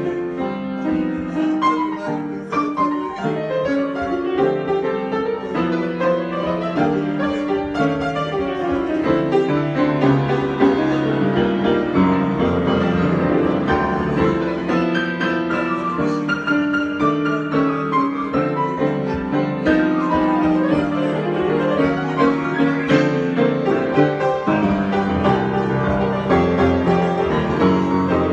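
Solo piano improvisation: a continuous flowing passage of many overlapping notes with no pauses.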